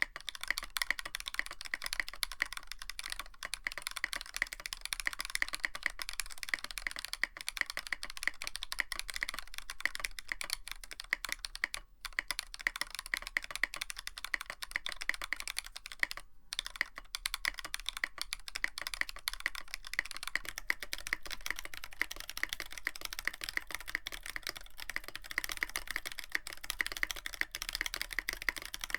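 Continuous fast typing on a Tofu65 mechanical keyboard with a brass plate and PBT keycaps: a dense stream of keystroke clacks, broken by two brief pauses.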